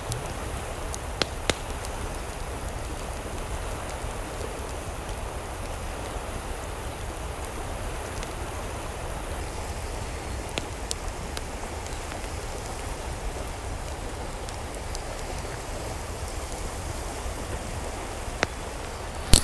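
Steady hiss of water, with a few sharp ticks scattered through it; the loudest tick comes right at the end.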